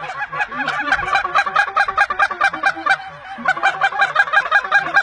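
A flock of geese calling, many short honks overlapping at about five a second; the calling eases about three seconds in, then picks up again.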